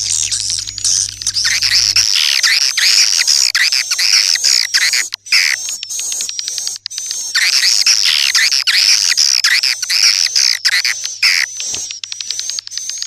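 Swiftlet calls, a dense chorus of rapid, overlapping twittering chirps. Around the middle it thins to scattered short ticks, then the full chorus resumes.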